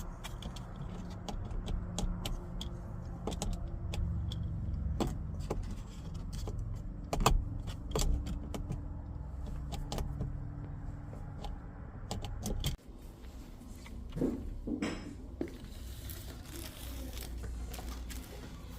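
Scattered sharp plastic clicks and knocks from a car's overhead sunglasses holder being pushed and worked, its latch sticking so that it won't open or close properly. Under them is a steady low hum that cuts off suddenly about two-thirds of the way through.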